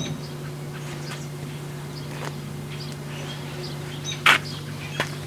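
A steady low electrical hum with scattered light clicks, and a sharp knock about four seconds in.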